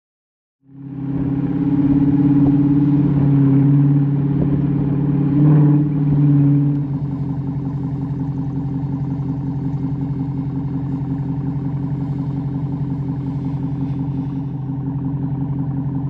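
Chrysler 300's Hemi V8 running through Carven R mufflers with the resonator deleted. It comes in loud after a second of silence, with a short rev blip about five seconds in, then settles to a steady, pulsing idle.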